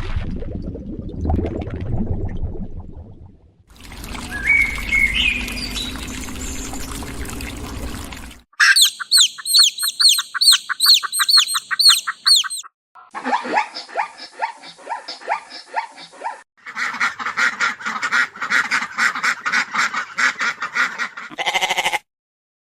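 A string of different animal calls edited one after another, with ducks quacking among them. A low-pitched sound opens it, and runs of rapid repeated calls fill the second half, cutting off abruptly about a second before the end.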